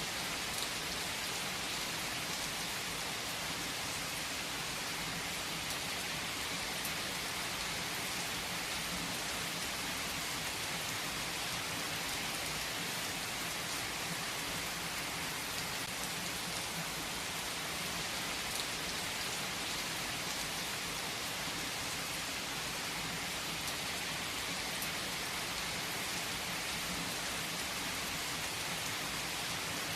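Steady rain falling, an even hiss of drops with an occasional sharper drop tick.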